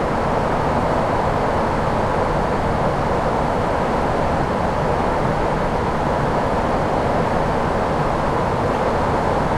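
Steady rush of airflow and engine noise on the flight deck of an Airbus A340-600 in flight, an even hiss with no changes.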